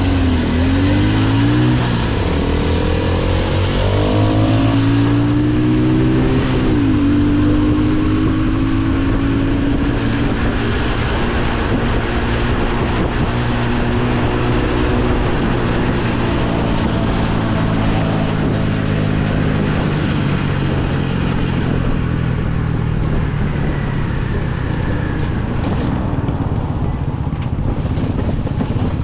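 Motorcycle engine accelerating, its pitch climbing and then dropping at two upshifts in the first seven seconds. After that it cruises at a fairly steady pitch under constant wind noise.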